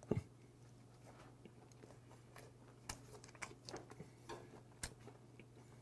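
A person chewing a mouthful of gwamegi (half-dried Pacific saury) wrapped in gim seaweed, quietly, with scattered small wet mouth clicks mostly in the second half, over a low steady hum.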